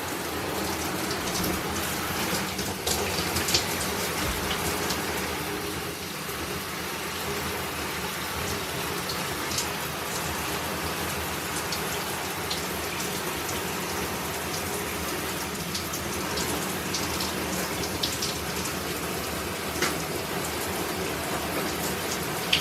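Shower water running steadily, spraying and splashing onto a puppy and the shower floor as leftover soap is rinsed off.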